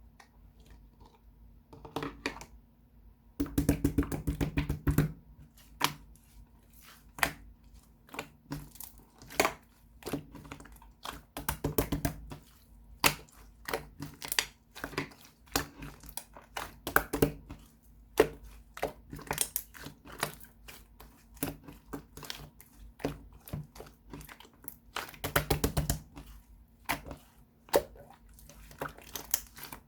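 Slime being pressed, stretched and folded by hand: a constant run of sticky clicks and crackles, with denser bursts of crackling about four seconds in and again near twenty-five seconds.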